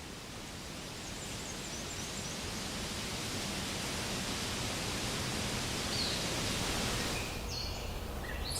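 Steady outdoor rushing noise, slowly swelling in level, with a few faint bird chirps that come more often near the end.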